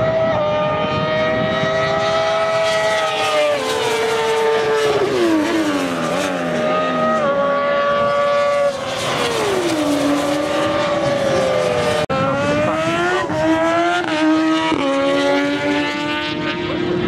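Racing superbike engines at high revs, several at once, their pitch sliding down as they shift down and brake, then climbing in steps through quick upshifts in the second half.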